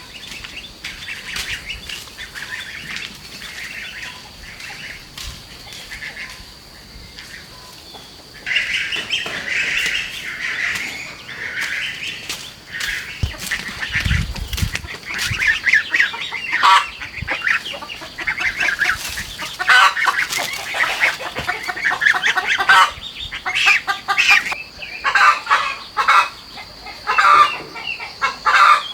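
A flock of chickens calling and clucking. The calls are sparse at first and become a busy, louder chorus about a third of the way in.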